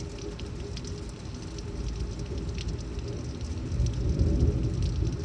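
Torrential thunderstorm rain pouring steadily, with scattered drop ticks and a low rumble that swells about four seconds in.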